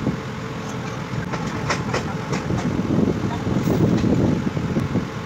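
Passenger train running along the track, heard from an open coach doorway: a steady rumble of wheels on rails, with a few sharp clicks from the wheels about a third of the way in.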